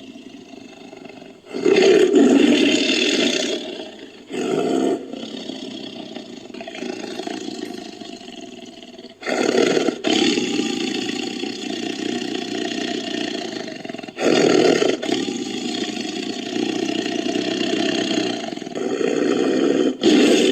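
Tiger roars, edited as a sound effect: about five loud roars, each starting abruptly, with long lower rumbling stretches between them.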